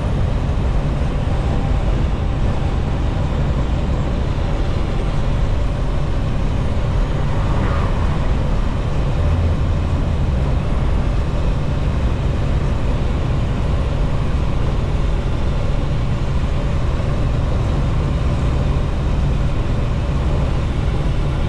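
Steady engine drone and road rumble heard inside a semi-truck's cab while driving.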